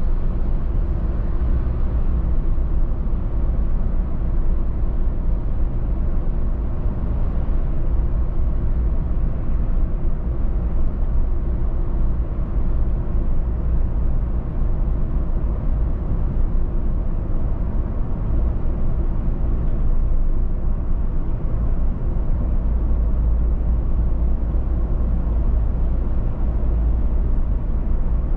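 Steady low road and engine noise inside a moving car at cruising speed, a constant rumble of tyres on the road with engine hum beneath it.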